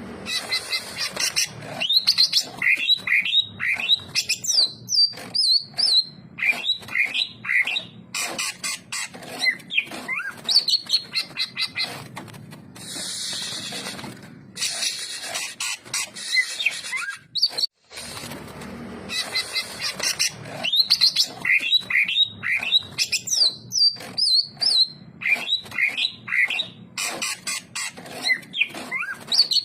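Cucak ijo (leafbird) singing a fast, varied song of whistled notes, chirps and rapid ticking notes, with the same phrases coming round again about every 18 seconds.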